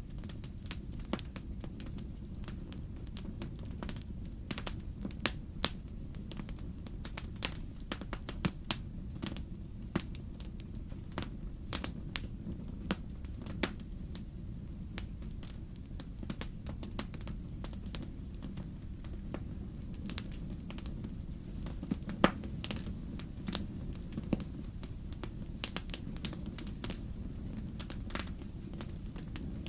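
Wood fire in a fireplace crackling, with a steady low rumble of flames and frequent irregular sharp pops, one louder pop about 22 seconds in.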